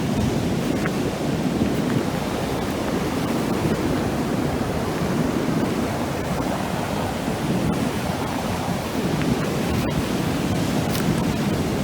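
Ocean surf breaking on a sandy beach: a steady, even roar of waves.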